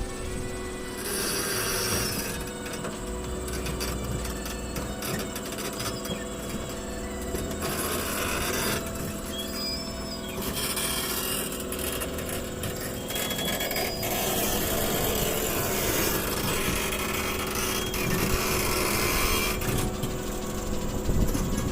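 Excavator engine running steadily, with grinding and scraping noise that comes and goes every few seconds, typical of its steel tracks and bucket working against the truck bed while it is driven off.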